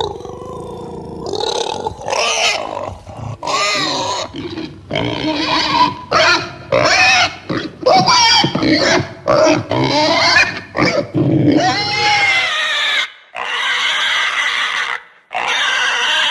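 Pigs calling: a rapid run of short, pitched calls that rise and fall, one after another with brief gaps between them.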